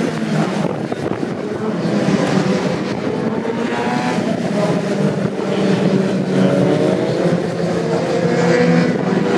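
Several racing superbike engines at high revs, their overlapping notes rising and falling as the bikes accelerate and change gear.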